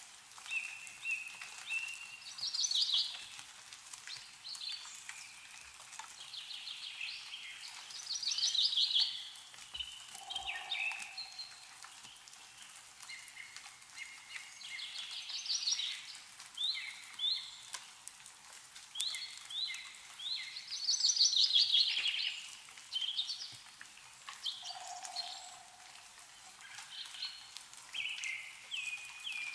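Several songbirds singing and chirping, with trills and short calls overlapping throughout, over faint dripping of meltwater from snowy trees. A lower, short call sounds about ten seconds in and again near twenty-five seconds.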